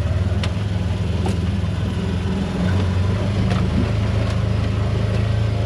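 Vehicle engine running at low speed, a steady low hum whose note steps up a little a little under three seconds in, with a few faint ticks and rattles over it.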